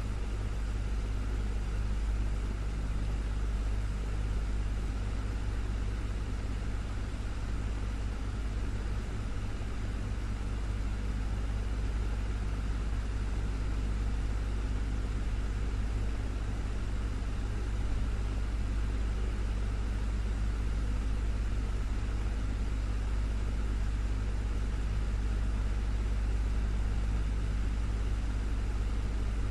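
Desktop fan running steadily: a constant low hum under an even rush of air, with no change in speed.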